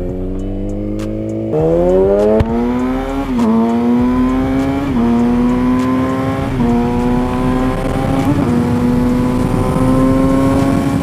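Motorcycle engine running hard under way, its pitch jumping up about a second and a half in, then climbing gradually with short dips roughly every second and a half, like gear changes.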